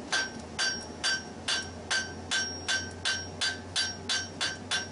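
Blacksmith's hammer striking hot steel on an anvil at a steady pace, about two and a half blows a second, each with a short bright ring: shaping the sloped scarf on a bar for a forge weld.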